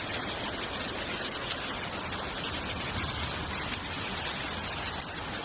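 Steady, even rushing of torrential water.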